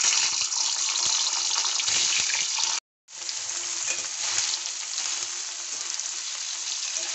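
Paneer cubes frying in hot oil in a kadai, a steady sizzle. The sizzle breaks off for a moment a little under three seconds in, then carries on a little quieter.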